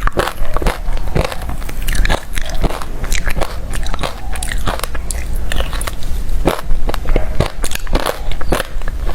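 Hard refrozen crushed ice being bitten and chewed close to the microphone: a rapid, irregular run of loud crunches and cracks, several a second.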